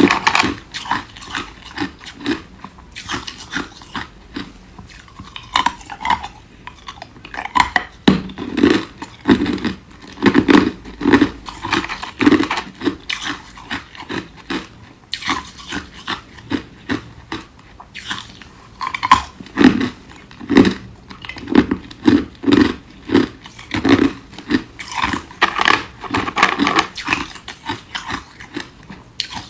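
A person biting and chewing ice cubes: runs of loud, crisp crunches about two a second, broken by short pauses.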